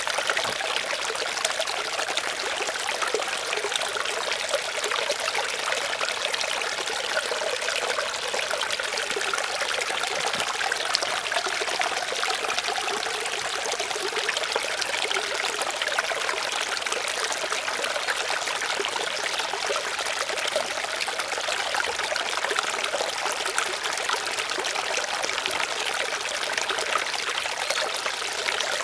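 Water trickling and running steadily, with a fine splashing texture and no change in level.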